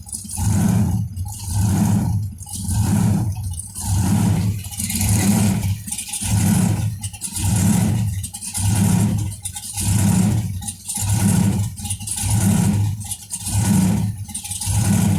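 Supercharged V8 of a blown 1957 Chevy, its note swelling and dropping in a steady rhythm about once a second as if the throttle were being blipped. The owner puts this surge down to the blower building pressure and the engine letting it out through the firing order, not his foot.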